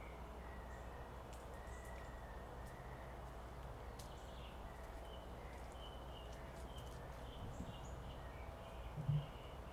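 Faint outdoor ambience: a steady low machinery hum, with scattered short bird chirps over it and a brief low thump near the end.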